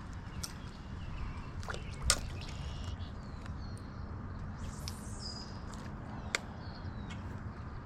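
Birds chirping and giving short whistled calls over a steady low outdoor rumble, with two sharp clicks, one about two seconds in and one about six seconds in.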